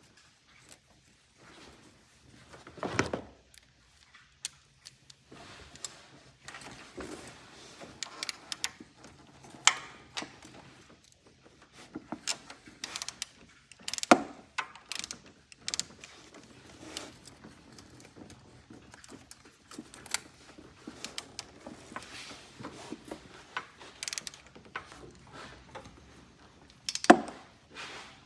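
Metal hand tools clicking and knocking, with some ratcheting and scraping, while an engine ground wire is unbolted and refitted. The loudest knocks come about three seconds in, near the middle and near the end.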